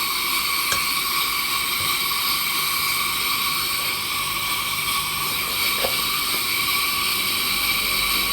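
Coleman 502 single-burner white-gas stove running with a steady hiss from its pressurised burner, the sound of the stove burning well with a clean blue flame.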